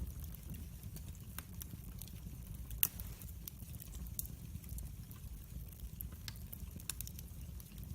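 Wood fire burning in a fireplace: a steady low rumble with irregular sharp crackles and pops, one louder pop about three seconds in.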